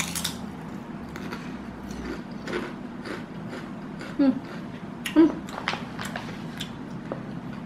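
Someone chewing Lay's shrimp tom yum potato chips: scattered soft crunches and mouth clicks, with two short hums near the middle.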